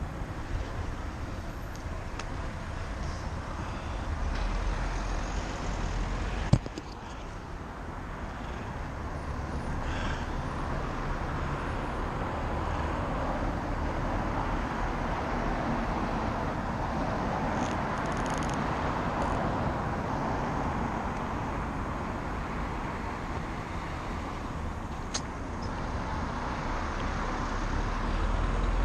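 Steady road and traffic noise with wind on the microphone of a camera riding along on a bicycle, and one sharp knock about six and a half seconds in.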